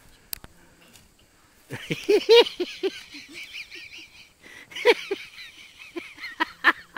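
A flock of birds, likely geese, honking: a run of short calls starting about two seconds in, loudest at two peaks, over a busy chatter of higher calls.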